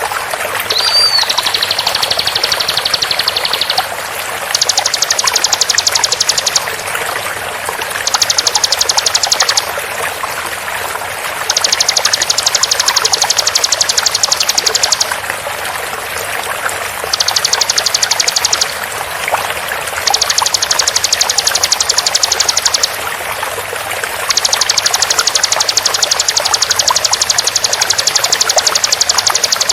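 Bar-winged prinia (ciblek) giving seven bouts of very fast, tightly spaced repeated notes, each one to several seconds long with short gaps between, over a steady sound of flowing water.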